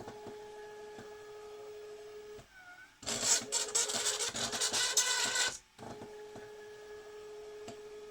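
Stepper motors of a 3D-printed SCARA robot arm moving it, with a steady electric whine and a brief dip in pitch near the middle. A louder rattling buzz runs for about two and a half seconds, then the steady whine returns.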